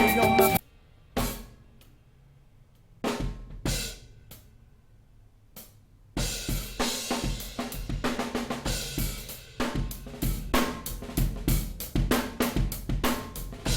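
Recorded drum kit played back from a multitrack session: the fuller mix cuts off about half a second in, a few lone drum hits follow with gaps of silence between them, then from about six seconds a steady drum pattern with hi-hat runs on.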